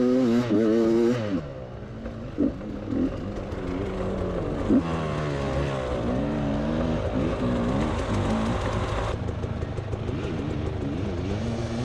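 Beta 300 RR two-stroke enduro bike's engine held at high revs, then dropping off about a second in and revving up and down in short throttle blips as it is ridden.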